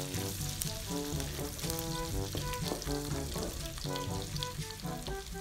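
Chopped onion and garlic sizzling in hot oil in a wok as they are sautéed and stirred with a wooden spatula. Background music with short pitched notes plays over the sizzle.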